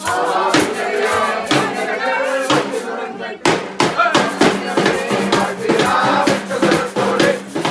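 Music with a group of voices singing together over a steady beat.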